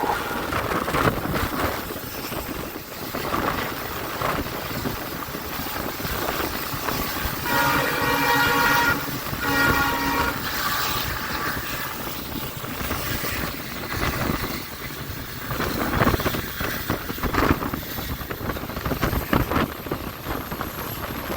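Diesel passenger train running, with the WDP4B diesel locomotive's horn sounding for about two and a half seconds about a third of the way in, over the steady rolling noise of the train.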